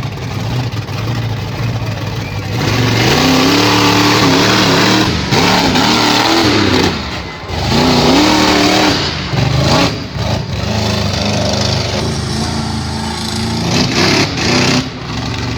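Monster truck engine revving hard in repeated bursts, its pitch climbing and falling as the throttle is opened and briefly lifted every few seconds.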